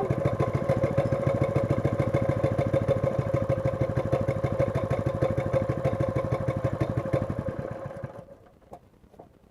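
Honda GX110 single-cylinder four-stroke engine on a plate compactor running on choke just after a cold start, a steady fast chugging that dies away about eight seconds in.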